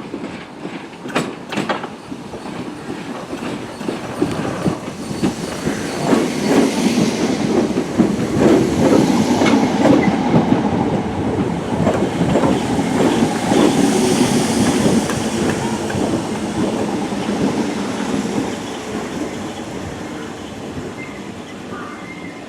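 Class 313 electric multiple unit running into the platform, its wheels clattering over the rail joints. The sound builds to a peak about halfway through and then dies away as the train slows.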